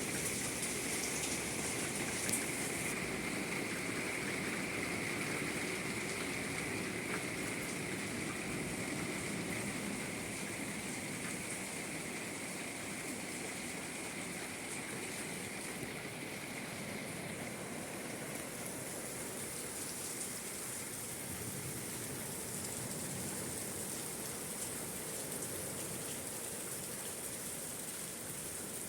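Steady rain falling, an even hiss of drops on surfaces, a little softer after the first third.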